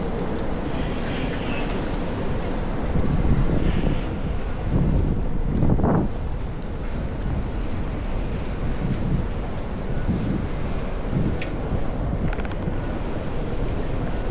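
Strong wind buffeting the microphone: a loud, rough rumble that swells in gusts a few seconds in, over city street noise.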